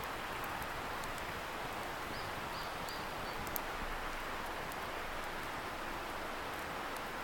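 Wood campfire crackling with scattered small pops, one sharper pop about three and a half seconds in, over a steady rushing hiss from a river some way off.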